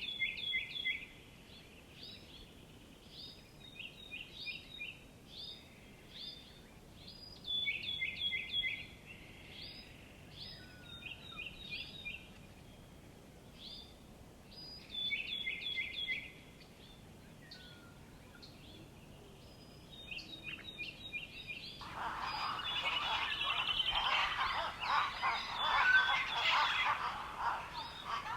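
Songbirds singing: one bird repeats a short, quick phrase every three to four seconds with softer calls in between. About twenty seconds in, a dense, louder chorus of many birds sets in.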